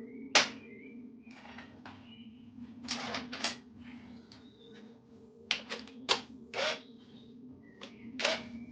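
Hand tools clinking and knocking against metal scooter parts during engine removal: about a dozen irregular sharp clicks and taps, some ringing briefly, with the loudest clink about half a second in. A steady low hum runs underneath.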